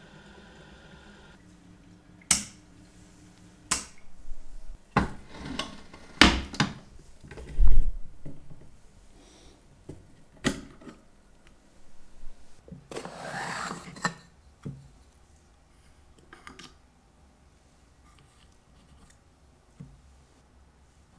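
Elma watch-cleaning machine running its drying step with a steady hum that stops about a second and a half in. Then come a string of clicks and knocks from the cleaning basket and machine parts being handled, with a heavy thump about eight seconds in and a short scraping rub a little later.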